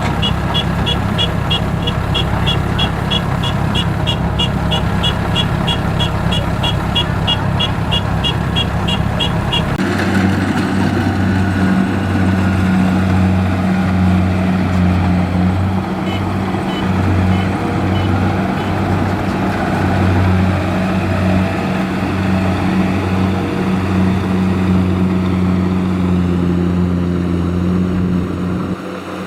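Kubota DC-70 combine harvester's diesel engine running steadily under working load. For the first third, a high warning beeper sounds about three times a second over the engine; then the sound changes abruptly to a deeper, steady hum.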